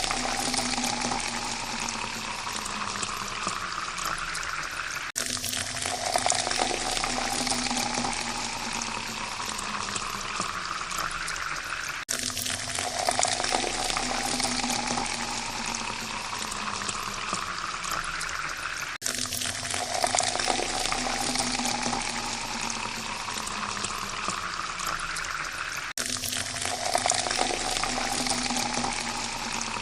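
Water pouring steadily into a glass, its note rising in pitch as the glass fills. The same pour repeats about every seven seconds, each one cut off abruptly and restarting as a loop, four times through.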